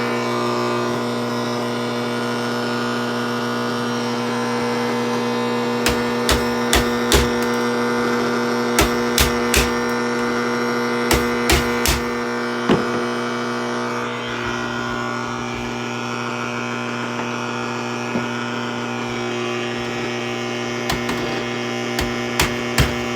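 Steady electrical hum and buzz from a switched-on boombox, with sharp clicks and knocks from parts being handled: a run of them from about six seconds in, and more near the end.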